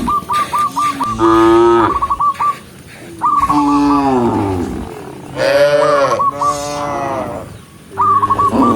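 Cows in a herd mooing, about four long moos one after another, each sliding down in pitch. A quick stuttering higher call overlaps several of them.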